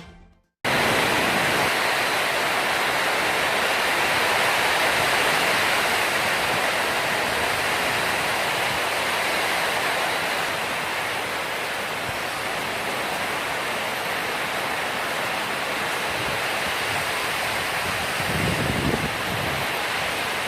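Steady rushing of floodwater, an even roar of water that starts abruptly about half a second in.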